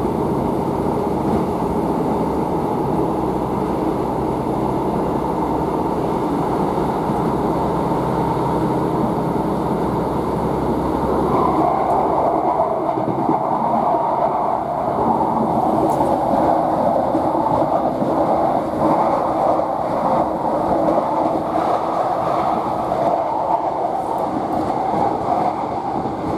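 Onboard sound of a Northern Class 150 Sprinter diesel multiple unit running along the line. A low drone underlies it at first, then drops away about halfway, and a louder rushing rolling noise takes over.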